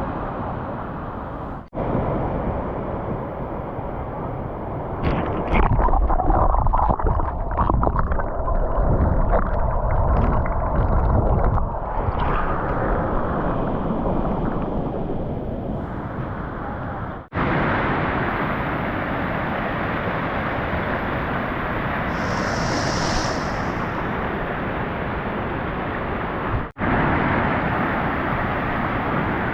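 Waterfall water rushing in a steady, loud noise, broken by three abrupt cuts. From about five to twelve seconds in it grows louder with a heavy low rumble.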